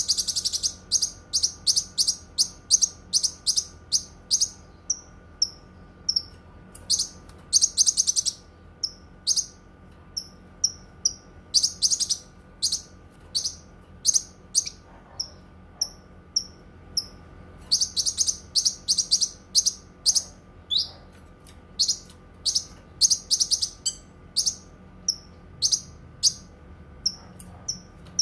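Cucak kinoi singing: a long run of sharp, high chirps at about two a second, broken four or five times by rapid trilled bursts. A faint steady hum runs underneath.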